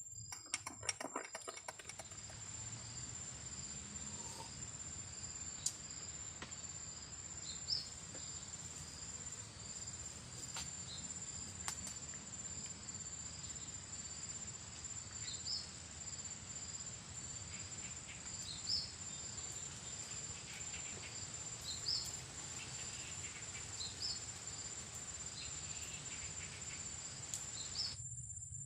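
Insects calling steadily: a continuous high-pitched trill with a pulsing chirp beneath it, typical of crickets or cicadas. A quick run of clicks comes about a second in, and single faint clicks follow now and then.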